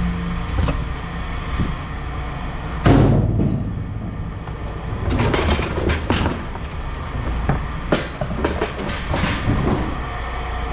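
Scrap metal clanking and banging as pieces are thrown down during unloading, the loudest bang about three seconds in and a quick run of clanks a little after midway, over a steady low rumble.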